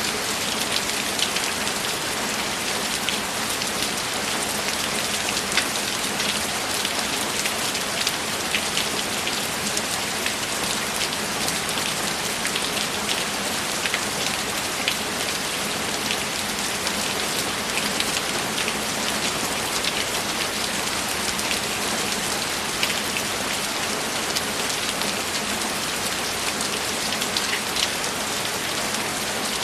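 Steady rainfall: a dense, even hiss with many close individual drop taps scattered through it.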